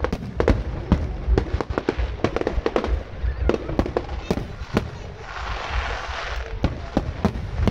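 Aerial fireworks display: shells bursting in a rapid, irregular series of bangs, several a second, with a stretch of hiss from about five to six and a half seconds in.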